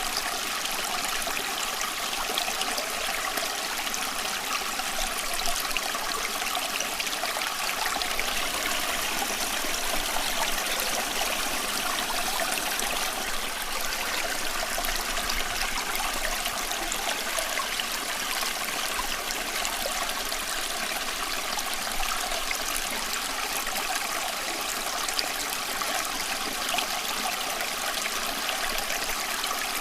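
Water flowing steadily, with a continuous rushing and fine trickling and splashing, like a stream running over stones.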